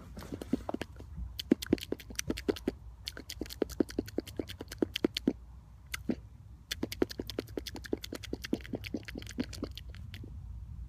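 A person making rapid mouth clicks and pops with the tongue and lips, several a second, pausing briefly about three seconds in and again about six seconds in.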